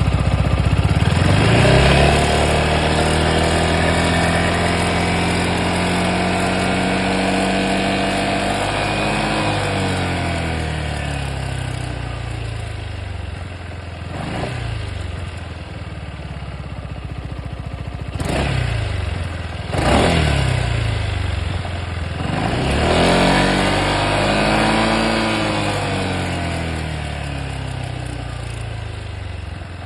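Yamaha XMAX 300 scooter's single-cylinder engine revved up and held, dropping back to idle. It is then blipped quickly a few times and revved up and down once more, with a noise from the motor that the owner calls weird.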